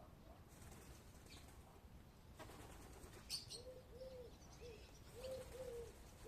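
A bird giving a faint run of short, low cooing notes that begins a little past halfway, preceded by a few sharp clicks.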